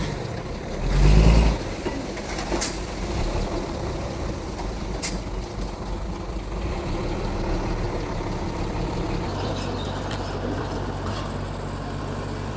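Mitsubishi G2 bulldozer's diesel engine running steadily while it works, with a brief louder burst about a second in. Two sharp metallic clanks follow, a couple of seconds apart.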